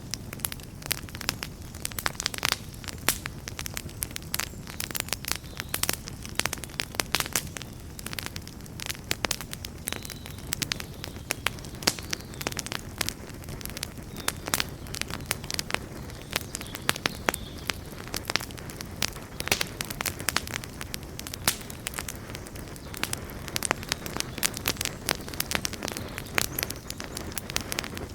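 Wood campfire burning with continual irregular crackles and pops over a soft low rumble of the flames.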